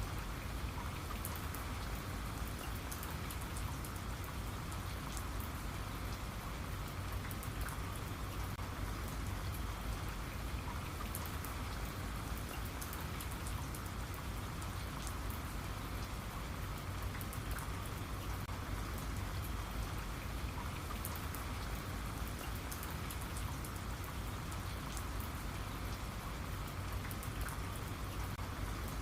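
Steady rain falling, a constant hiss with fine scattered drop ticks and no pauses.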